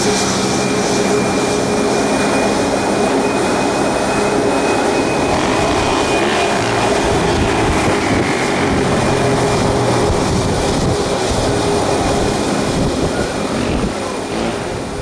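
Jet airliner engines running loud and steady close by, with a high steady whine over a broad rush of noise that eases a little near the end.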